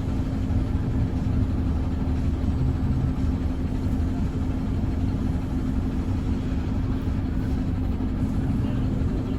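Mercedes-Benz O405N2 city bus heard from inside the cabin during a ride: a steady low engine and running rumble with a constant hum.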